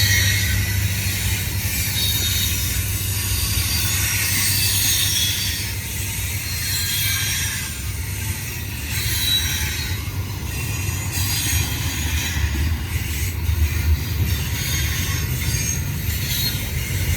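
Double-stack container freight train rolling past: a steady low rumble of the cars with high-pitched wheel noise on the rails.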